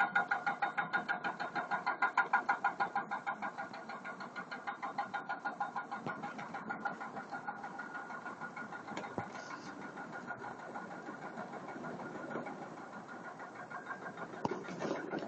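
An engine running with a rapid, even pulsing of several beats a second. It grows fainter after the first few seconds.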